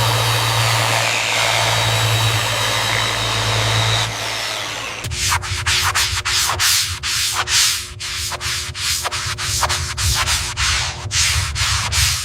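A steady mechanical running sound with a low hum for about four seconds. Then it switches abruptly to repeated hand rubbing or sanding strokes, about three a second.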